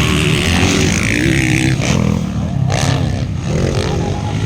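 Motocross dirt bike engines revving as the bikes race on the track, the pitch rising and falling with the throttle.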